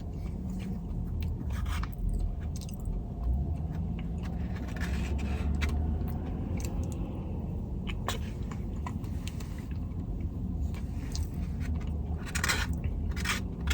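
A person chewing and biting food close to the microphone, with scattered small crunches and mouth clicks, over a low steady hum.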